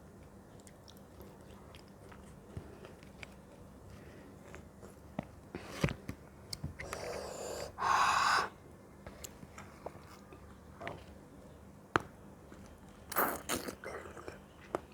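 Close-miked chewing and biting of fruit: wet mouth clicks scattered throughout, with two louder noisy bites or slurps, the loudest about eight seconds in and another near the end.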